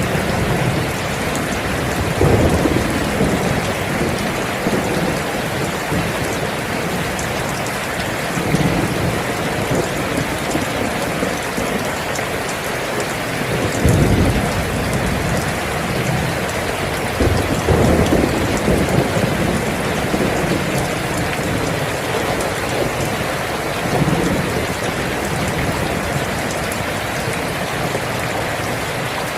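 Steady rain with low rolls of thunder rumbling in about five times, every few seconds.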